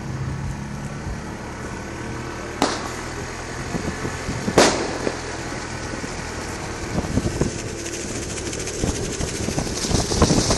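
Motorcycle engine running under way, heard from a bike-mounted camera with wind on the microphone that grows louder toward the end. There are two sharp knocks about two seconds apart, a few seconds in.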